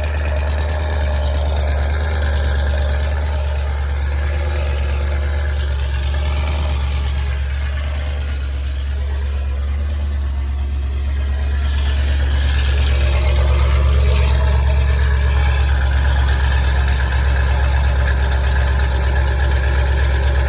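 2007 Dodge Charger SRT8's 6.1-litre Hemi V8 idling steadily while warming up from a cold start, a strong low drone that grows slightly louder about twelve seconds in.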